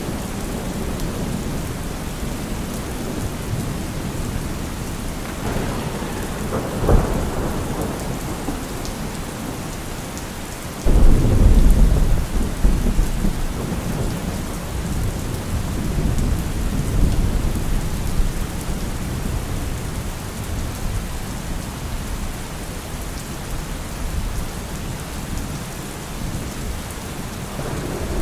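Steady heavy rain with thunder. There is a short thunderclap about seven seconds in. About eleven seconds in, a loud low rumble breaks in suddenly and rolls away over several seconds.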